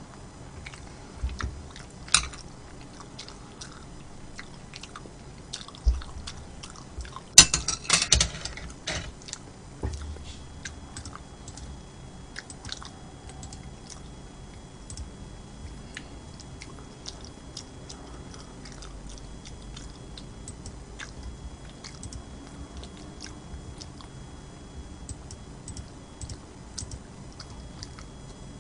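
A person chewing food close to the microphone, with wet mouth clicks scattered throughout. A burst of louder, sharp clicks comes about seven to eight seconds in.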